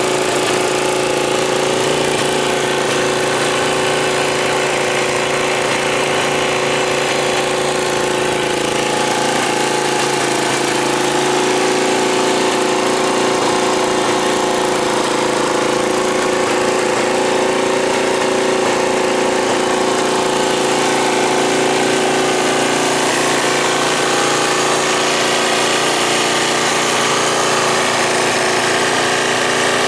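Suzuki Grass Tracker's single-cylinder engine idling steadily through an aftermarket muffler.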